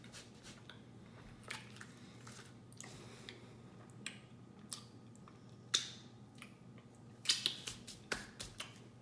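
Close-up mouth sounds of a person chewing mochi ice cream: scattered lip smacks and wet clicks, a little louder and closer together near the end.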